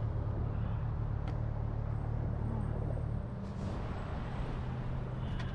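A motorcycle engine idling steadily amid street traffic, its hum easing slightly about three seconds in.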